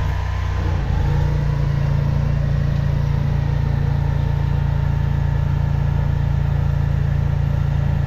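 Engine of a high-pressure drain jetter running steadily. About a second in, its pitch and loudness step up and then hold, as the jetter goes back on to clear the drain.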